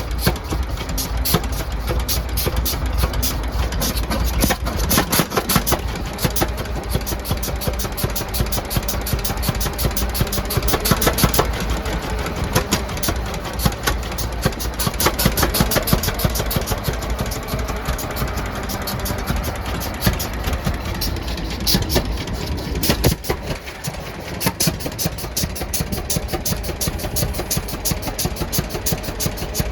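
Antique engine running at a steady idle, freshly started, with a rapid even clatter of its firing and valve gear.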